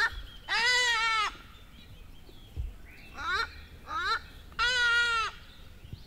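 A bird calling: two long drawn-out calls, each under a second, with short upward-sliding notes before and between them.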